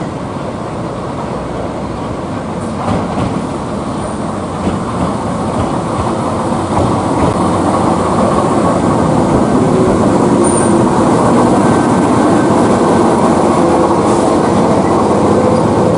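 A train running on the track, its rumble growing louder over the first half and then holding steady.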